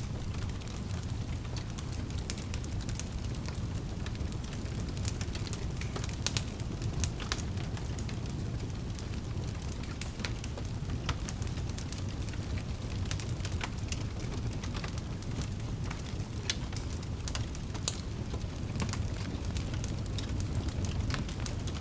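Wood fire burning in a fireplace: a steady low rumble of the flames with frequent irregular crackles and pops throughout.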